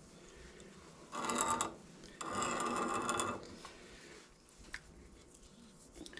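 Hand tap being turned into a metal fitting to cut threads: two short scraping, ratcheting strokes, one about a second in and a longer one just after two seconds.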